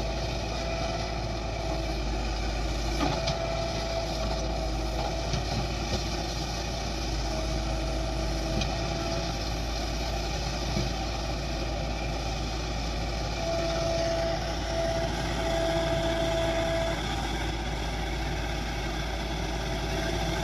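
Diesel engines of a JCB backhoe loader and a tractor running steadily, with a thin whine that comes and goes several times.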